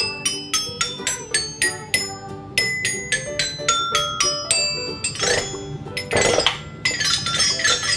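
Toy xylophone struck with its two mallets: a run of single ringing notes, about four a second, moving around the keys, then a quicker jumble of overlapping notes over the last few seconds.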